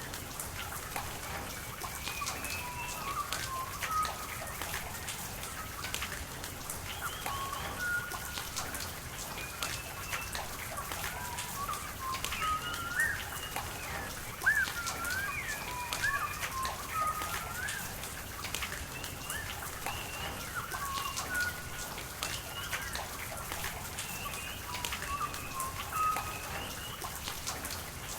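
Steady rain and running water with scattered drops ticking. Birds call throughout in short chirps and whistles.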